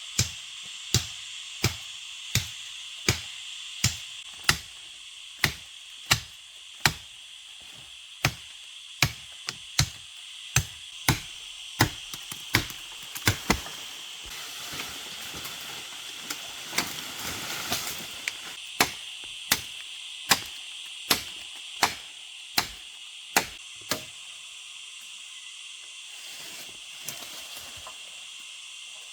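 Repeated chopping blows, about one and a half a second, in two runs with a few seconds' break between them, stopping some seconds before the end. A steady high-pitched hiss runs underneath.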